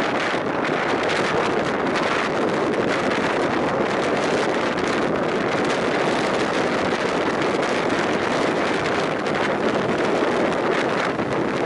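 Wind buffeting the microphone over the steady rumble of a passenger train's coaches running on the rails, heard from an open window of a moving carriage.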